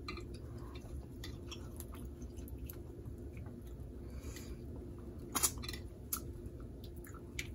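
A person chewing seafood-boil food close to the microphone, with scattered small clicks and smacks and a sharper click about five and a half seconds in.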